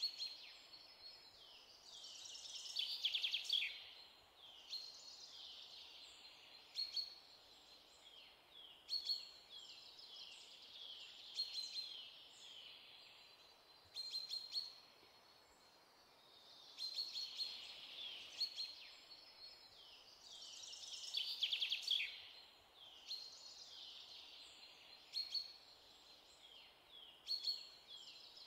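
Birds chirping: many short, falling calls, with two longer spells of dense chattering, one a few seconds in and one past the middle.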